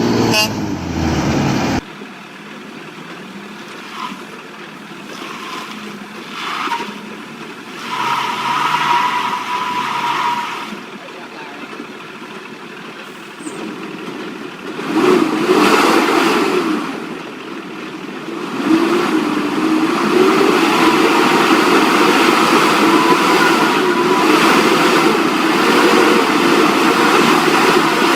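Vehicle engines running and revving, in several short stretches that change abruptly. From about two-thirds of the way in, one engine holds a steady, wavering note.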